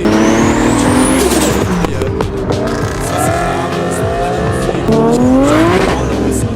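Toyota Supra MK4's straight-six engine accelerating hard, its revs climbing in several rising sweeps with short breaks between them as it shifts up. A high whine rises over the first second, then falls away.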